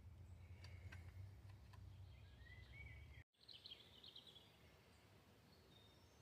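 Near silence: faint outdoor ambience with a few faint bird chirps a little past the middle.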